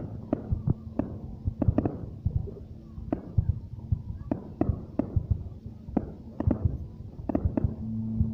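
Aerial fireworks bursting, an irregular string of sharp bangs coming a few each second.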